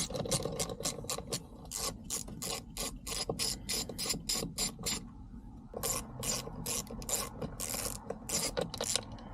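Ratchet wrench clicking in quick runs of strokes as bolts are backed out, with a short pause about halfway through before the clicking resumes.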